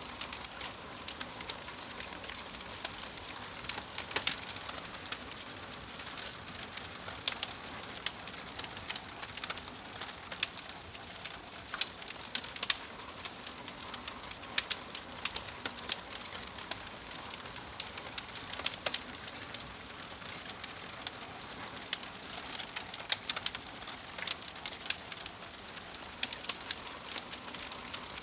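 Wood fire in a fireplace crackling, with frequent irregular sharp pops over a steady soft hiss.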